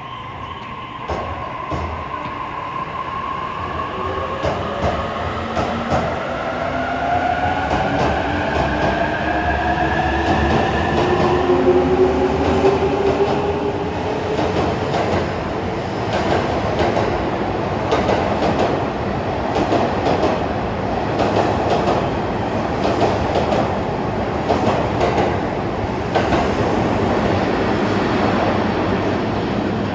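Electric commuter train running along the platform. A motor whine rises in pitch over the first half, and there is scattered clicking from the wheels over the rail joints. It then settles into a steady rumble of the passing cars.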